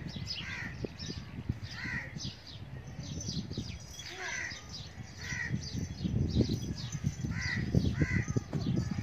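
Birds calling over and over in short calls, one every half second to a second, with a low rustle and knocks of movement underneath.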